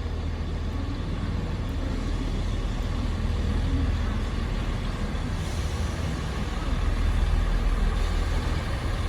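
Two-car Class 158 diesel multiple unit standing at the platform, its diesel engines running with a steady low rumble.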